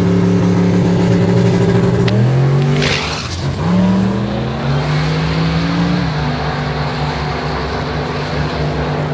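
Drag car's engine running under load, its pitch holding, then climbing and stepping down as the gears change, with a brief noisy burst about three seconds in.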